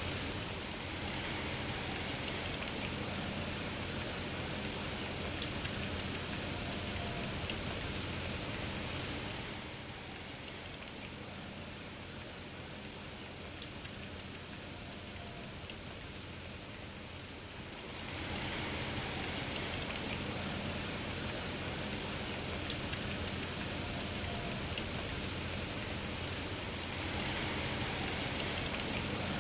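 Steady rain falling, a little softer for several seconds in the middle before picking up again, with three sharp single drip taps standing out, spaced several seconds apart.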